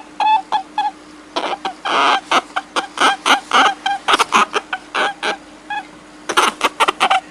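Rapid series of short, pitched animal calls, several a second with brief pauses, over a faint steady hum.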